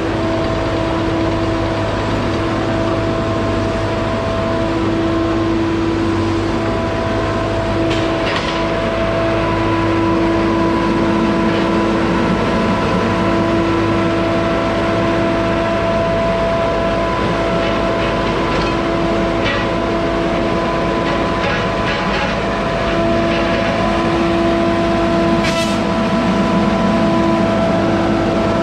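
Two-stroke chainsaw running steadily at high speed through a cut, its pitch dipping slightly now and then, with a few sharp cracks, the loudest one near the end.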